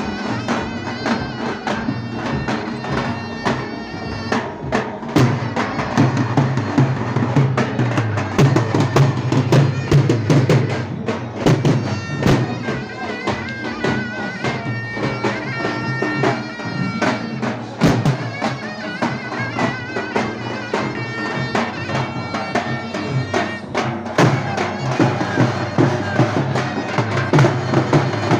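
Davul and zurna playing a lively folk dance tune: the shrill double-reed zurna carries the melody over rapid, steady davul drum beats.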